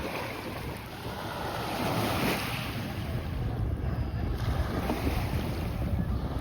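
Sea waves washing onto the beach, one wash swelling up about two seconds in, with wind rumbling on the microphone.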